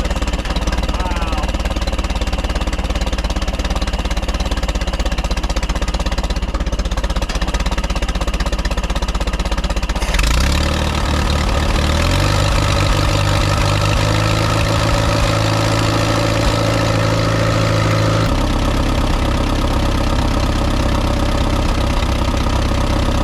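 Allis-Chalmers WD45 tractor's four-cylinder gasoline engine running after being revived from long storage; about ten seconds in the engine speed goes up, holds higher for several seconds, then drops back to a steady idle.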